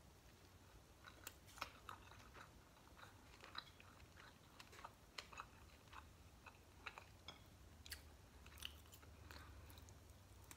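A person biting and chewing crispy food close to the microphone: faint, irregular crunches and mouth clicks.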